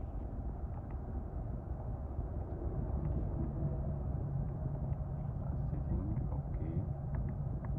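Hyundai Elantra AD heard from inside the cabin: a steady low rumble of engine and road noise, with a hum that grows stronger about two and a half seconds in, and a few faint clicks.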